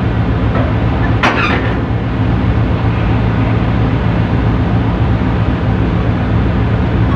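Tugboat's diesel engine running steadily, a deep even drone, with a short sharp noise about a second in.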